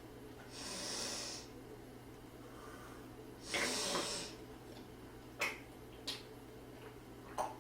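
A person eating, with two loud breathy, hissing exhalations or snorts about a second long each, followed by three short sharp clicks.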